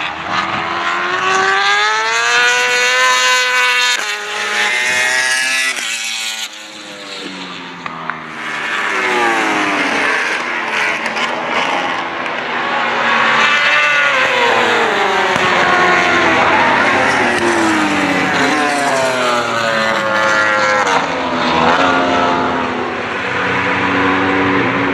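World Superbike racing motorcycles running hard past the track, engine notes climbing under acceleration and dropping on braking and downshifts, over and over, with a few abrupt cuts in the sound.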